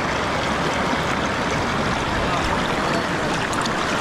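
Salmon River current rushing steadily, a constant wash of flowing water.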